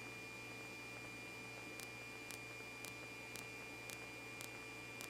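Low steady electrical hum and hiss with a thin high steady tone on the radio recording between transmissions; faint ticks come about twice a second from about two seconds in.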